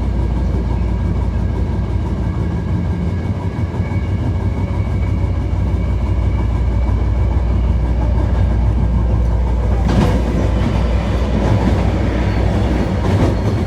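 Hankyu 1300 series electric train running, heard from inside the car: steady wheel-on-rail rumble with the whine of its Toyo IGBT VVVF inverter and traction motors as several steady tones, and a single knock about ten seconds in.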